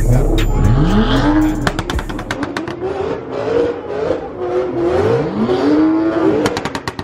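BMW coupe's engine revved twice, the pitch rising and falling, about a second in and again about five seconds in, with sharp crackles around the revs.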